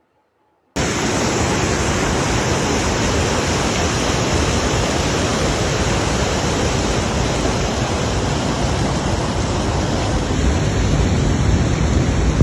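Loud, steady roar of rushing water from a mountain river or waterfall. It starts abruptly about a second in and cuts off abruptly at the end.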